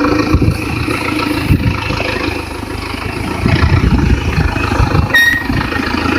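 Vehicle engine running, steady and rumbling, louder from about halfway, with a short high beep about five seconds in.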